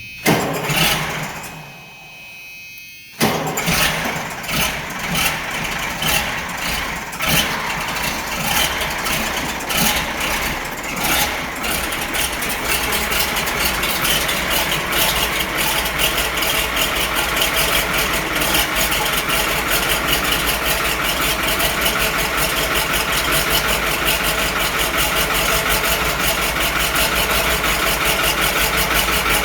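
Caterpillar 3208 V8 diesel in a White 2-180 tractor cold-starting at 18 degrees with no ether and no block heater. It turns over briefly, then catches about three seconds in and runs rough and uneven, surging, before settling into steadier running after about ten seconds.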